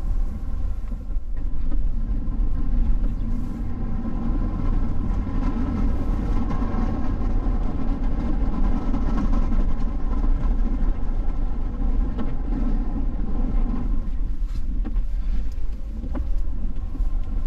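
Ford pickup truck driving on a snowy road, heard from inside the cab: a steady low engine and road rumble with tyre noise, swelling slightly in the middle as it pulls away.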